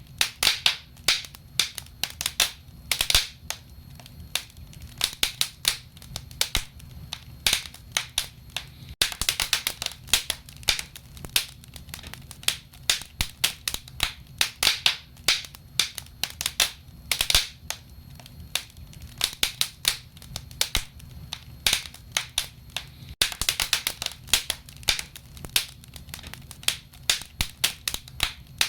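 Wood fire crackling: irregular sharp pops and snaps, coming in flurries, over a low steady rumble of the flames.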